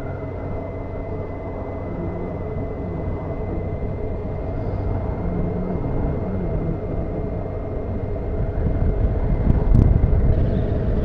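Honda CBF motorcycle running on the move, with engine and road noise heard through an onboard camera. The noise grows louder over the last few seconds.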